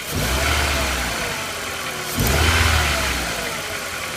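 VW Jetta Mk4's 2.0-litre four-cylinder engine revved twice, about two seconds apart, each blip rising and settling back to idle. The engine has a scanned misfire on cylinder 4.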